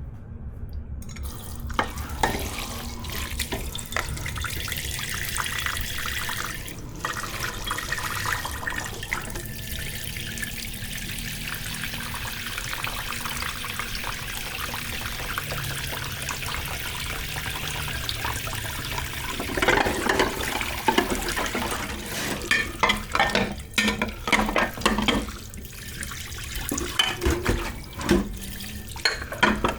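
Kitchen tap running steadily into a sink while dishes are washed. About two-thirds of the way through, dishes and utensils start to clatter and knock against each other in the sink.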